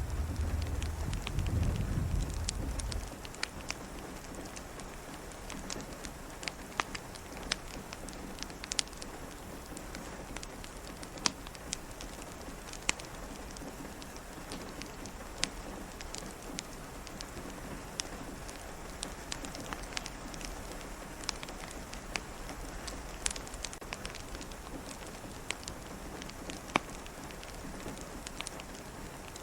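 Steady rain pattering, with scattered sharp pops and crackles of a wood fire. A low rumble of distant thunder dies away about three seconds in.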